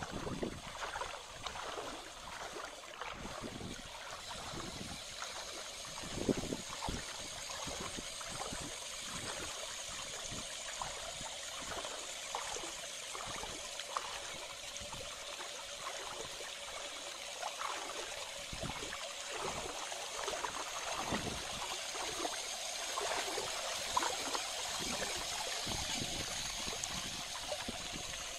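Running water: a steady rush dotted with many small, irregular splashes.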